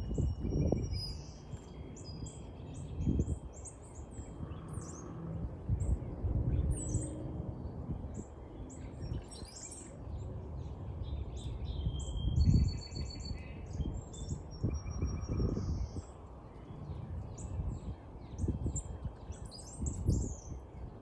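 Songbirds chirping and twittering: many short, high chirps with a few quick trills. Under them runs a low rumble on the microphone that comes and goes, loudest a little past the middle.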